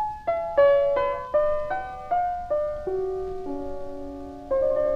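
Solo piano introduction: single notes struck one after another in a slow descending line, each dying away, ending on a held chord about four and a half seconds in.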